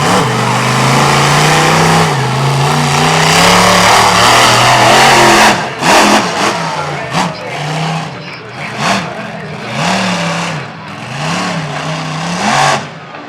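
Monster truck engine held at high revs for about five seconds, then revved in short blips that rise and fall roughly once every second and a half.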